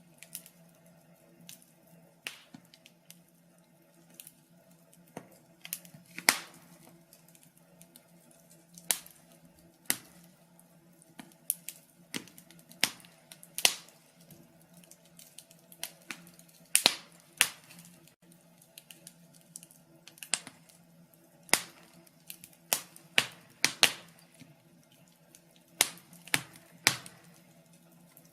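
Wood fire crackling, with irregular sharp pops and snaps of uneven loudness over a faint steady low hum.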